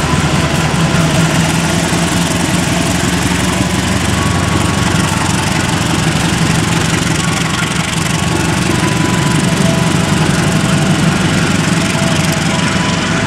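Diesel-hauled passenger train departing: a steady, loud diesel engine drone with the rumble of the carriages rolling slowly past.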